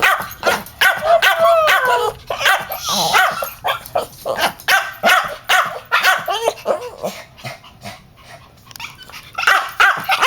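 Frightened dogs barking and yelping in quick short calls, with wavering whines at first, a brief lull late on, then barking again near the end: distress at a thunderstorm.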